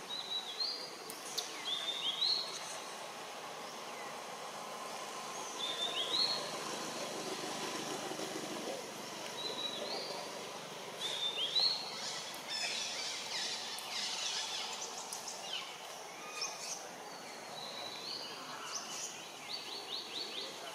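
A bird repeating a short rising chirp every few seconds over a steady outdoor hiss, with a flurry of quick calls about midway and a fast trill near the end.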